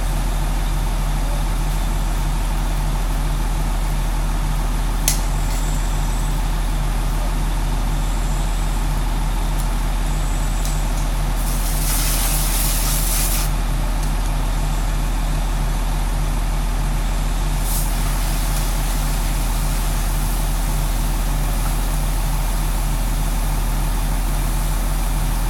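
Large diesel engine, likely the fire engine at the scene, running steadily with a low drone. A sharp click comes about five seconds in, and a hiss of air lasts about two seconds near the middle.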